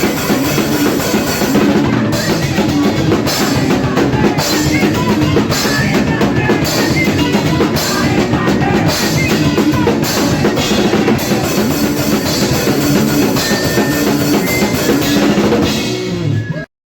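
Hardcore punk band playing loud and fast: a drum kit with bass drum and snare pounding under guitar riffs. The music cuts off abruptly near the end.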